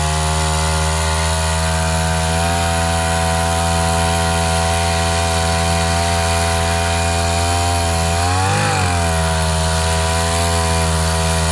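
Two-stroke brush-cutter engine with a 40 mm bore driving a long-tail boat propeller, running steadily, with a brief rise and fall in pitch about eight and a half seconds in.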